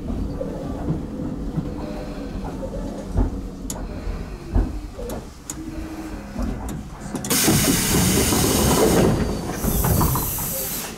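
Tobu 10030 series electric train rolling with a low rumble and a few sharp rail clicks. About seven seconds in, a loud hiss of compressed air starts and runs for several seconds.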